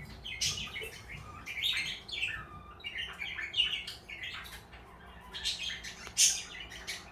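Pet parakeets chirping and chattering in a busy run of short, irregular high chirps.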